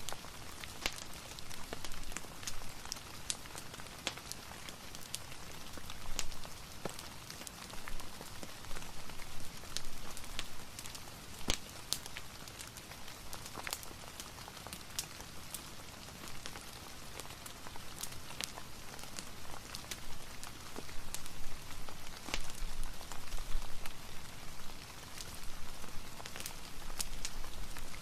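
Steady rain mixed with a crackling fireplace: an even hiss broken by many scattered sharp pops and ticks.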